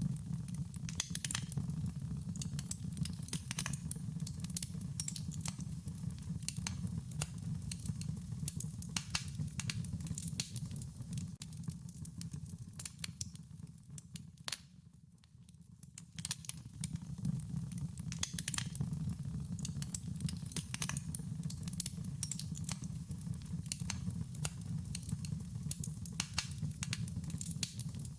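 Wood fire crackling, with many sharp pops and snaps over a low steady rumble. The crackling thins out and goes quieter for a moment about halfway through.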